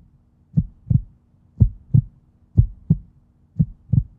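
Heartbeat sound effect: low, dull double thumps, one lub-dub pair about every second, over a faint steady hum.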